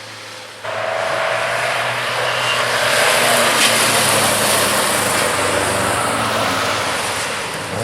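Ford Lotus Cortina Mk1 racing saloon's twin-cam four-cylinder engine at speed on track. It comes in suddenly about half a second in, grows louder to a peak around three seconds, then slowly fades as the car goes by.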